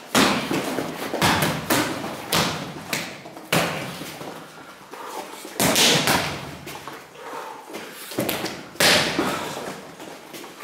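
Punches and strikes landing on a BOB torso training dummy: a string of heavy thumps at an uneven pace, with the hardest hits near the start, about six seconds in and about nine seconds in.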